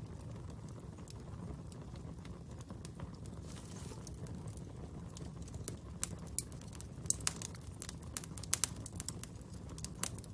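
Fire crackling: a steady low rumble with scattered sharp pops, which come more often and louder in the second half.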